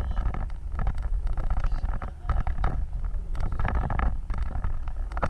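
Wind buffeting the microphone over the steady low rumble of a moving off-road vehicle.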